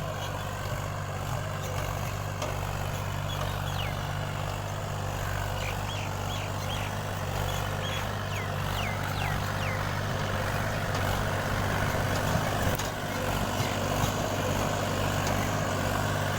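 Mahindra 265 DI Power+ tractor's three-cylinder diesel engine running steadily while it pulls a loaded trolley.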